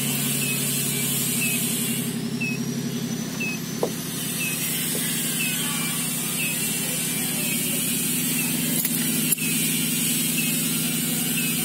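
Swapped Toyota 1JZ-GTE turbocharged straight-six idling steadily, heard from inside the car's cabin. A faint chirp repeats about twice a second, and there are two sharp clicks, one about four seconds in and one near nine seconds.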